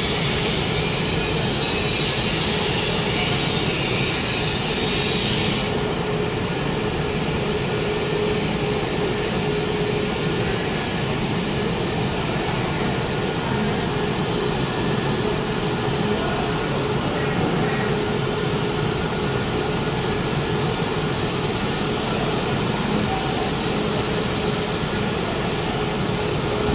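Wood pellet production line machinery running with a steady, loud mechanical din and a constant hum; a high hiss in the noise drops away about six seconds in.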